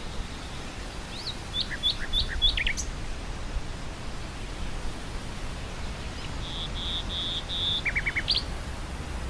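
Common nightingale singing two phrases with a pause between them: first a run of short slurred notes, then a row of four repeated whistled notes ending in a quick rattling trill. Steady low wind noise runs underneath.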